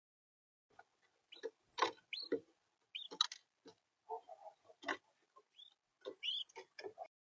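Irregular taps and knocks on a bird feeder, mixed with a few short rising chirps, as an animal feeds at it.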